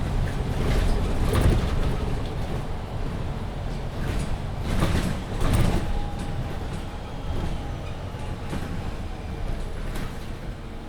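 MAN Lion's City 19C EfficientHybrid articulated bus under way, heard from inside: a steady low rumble of its diesel drivetrain and road noise, with knocks and rattles about a second and a half in and again around five seconds in. A faint steady whine comes in about six seconds in.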